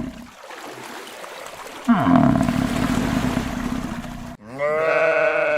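Animal calls: a rough call that falls steeply in pitch starts suddenly about two seconds in, and near the end a long, steady bleat begins.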